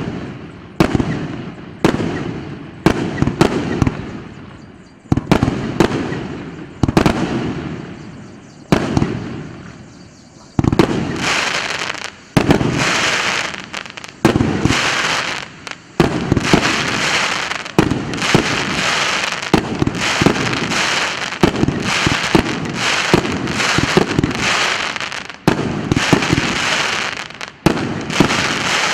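РС953 'КПСС' fireworks battery firing shot after shot: for the first ten seconds, sharp bangs about once a second, each fading out; then from about ten seconds in, faster bangs over a thick, unbroken crackle.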